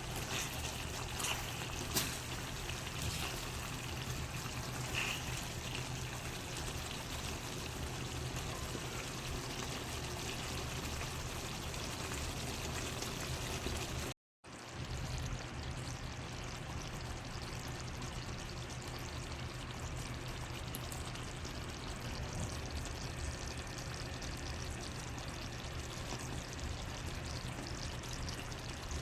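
Pan of chicken curry cooking, giving a steady liquid bubbling noise. A few light clicks come in the first few seconds, and the sound drops out abruptly for a moment about halfway through.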